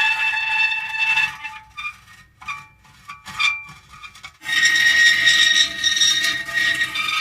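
Metal creaking: a long, high-pitched squeal with several overtones, then a quieter stretch of short, broken squeaks and ticks, and a second long creak starting about four and a half seconds in.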